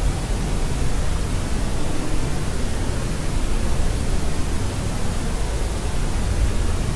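Steady, unbroken white-noise track for soothing a baby to sleep, a constant hiss weighted toward a deep low rumble, with no crying in it.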